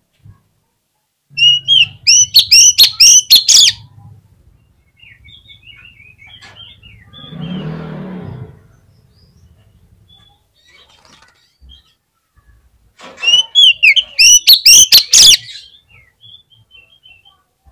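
Oriental magpie-robin (kacer) singing in two loud bursts of quick, hooked whistled notes, one about a second in and another near the end. Soft scattered chirps and a brief lower noise lie between them.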